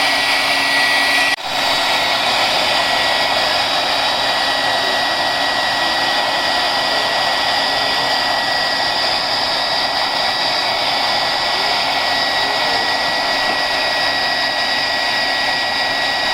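Handheld hair dryer running steadily, its fan blowing with a thin high whine, used to heat and soften CA glue on a subwoofer. It cuts out for an instant about a second and a half in, and the whine comes back higher.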